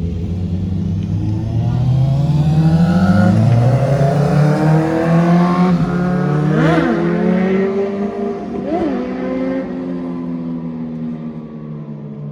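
Motorcycle engines accelerating, their pitch rising over the first few seconds, then two quick throttle blips about seven and nine seconds in, before the sound fades away.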